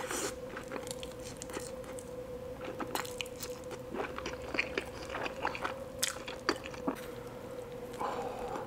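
Close-miked eating: crunchy bites into fried food and wet chewing, with irregular crackles throughout over a faint steady hum.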